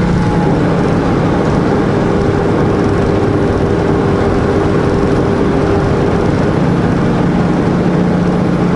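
Semi truck's diesel engine running steadily under way, with road noise, heard inside the cab. A faint steady tone joins the rumble for a few seconds in the middle.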